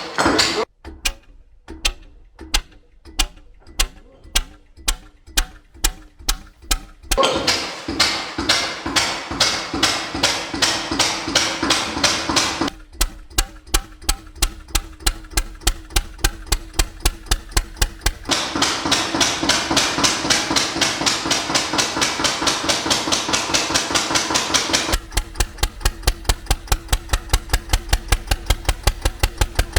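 Single-cylinder Ruston Hornsby stationary engine being turned over by hand crank on decompression from cold, its regular knocking quickening as the heavy flywheels gain speed, then carrying on as a steady rapid knock with a rushing hiss that comes and goes.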